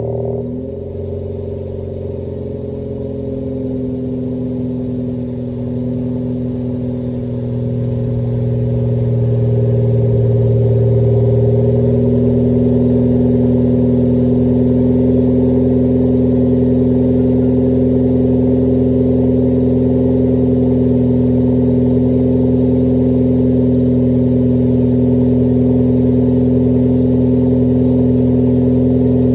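2016 Ford Focus ST's turbocharged 2.0-litre four-cylinder idling steadily on a cold start through a Borla-made Ford Performance cat-back exhaust. The level dips briefly about a second in, grows over the next several seconds, then holds steady.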